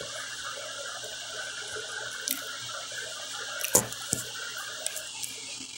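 Close-up chewing of pizza: wet, crackly mouth sounds over a steady hiss, with a few sharp clicks, the loudest a little under four seconds in.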